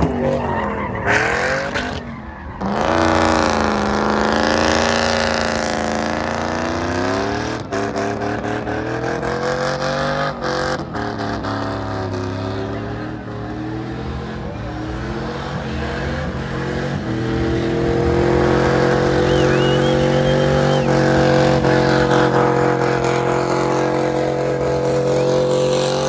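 Pickup truck doing a burnout. The engine is revved hard and swings up and down, then holds high and steady from about two-thirds of the way in, with the rear tires spinning against the pavement.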